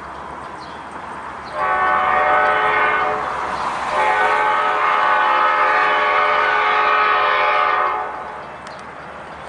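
Train air horn sounding two blasts, a short one and then a longer held one of about four seconds, with several tones sounding together as a chord, over a steady rushing background noise.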